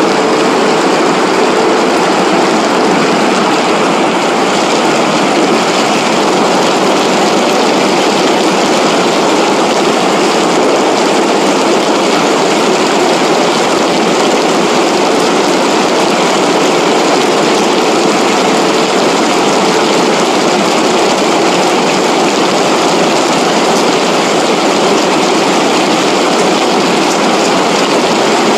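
Floodwater rushing down a flowing wadi after heavy rain: a loud, steady, even rush of water.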